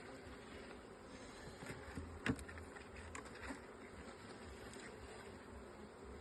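Honeybees buzzing around an opened hive, with one sharp knock about two seconds in and a few lighter taps after it.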